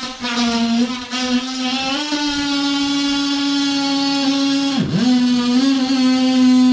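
Electric power tool motor running at a steady high speed with a whine. About five seconds in it briefly drops in speed and then picks back up.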